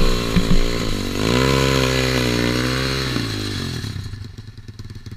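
Small single-cylinder pit bike engine revving up and down, then dying away about four seconds in.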